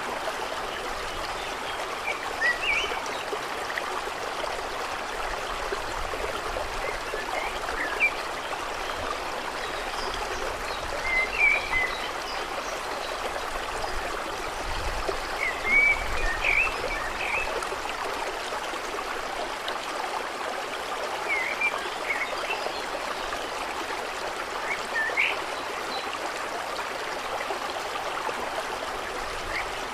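Steady flowing water, like a small stream or trickle, with short high chirps every few seconds.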